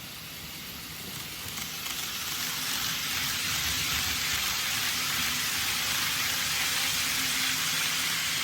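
N-gauge model train running on the layout: a steady hissing rush of wheels on track that swells about two seconds in as the train nears.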